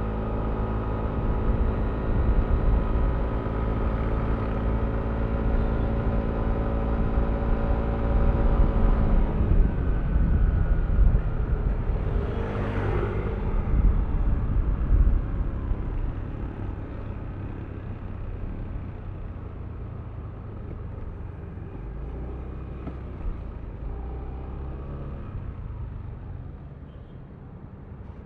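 Yamaha Aerox V3 scooter's single-cylinder engine running at a steady speed, then its note falls as the scooter slows, with a short rushing hiss partway through; the engine is quieter and lower for the rest, as when coasting down or idling.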